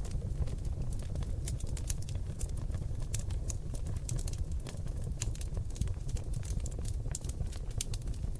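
Seasoned oak logs burning in a fireplace, crackling and popping with many irregular sharp snaps several times a second over a steady low rumble of the flames.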